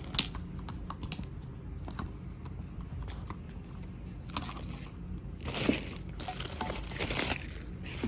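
Hands handling power-tool parts and packaging: scattered clicks and knocks with a few bursts of rustling, the loudest about two-thirds of the way through.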